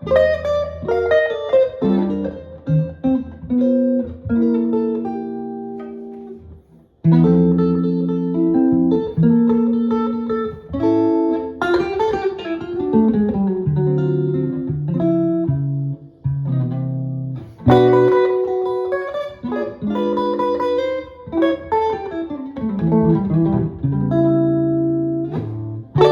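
Jazz guitar playing bass notes, chords and melody together, with a brief pause about seven seconds in.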